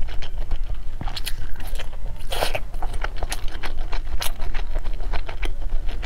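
Close-miked chewing of a mouthful of food: a run of short wet clicks and crunches, the loudest crunch about two and a half seconds in.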